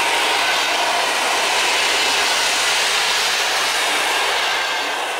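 Passenger coaches of an Intercity train rolling past, their wheels on the rails making a steady rushing noise that starts to fade near the end.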